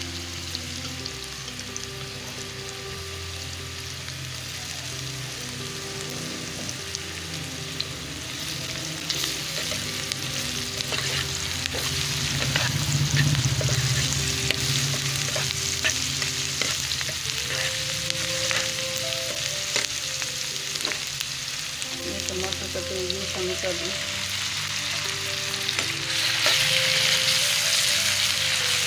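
Sliced onions and ginger-garlic paste sizzling in hot oil in a nonstick pan, stirred with a steel ladle that clicks and scrapes against the pan. The sizzle grows louder near the end as chopped tomato goes in.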